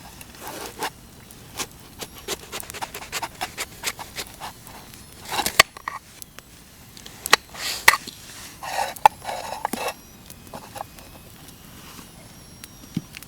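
Irregular scraping, clicking and rustling of camping gear being handled, with louder rustling bursts about halfway through and again a little later.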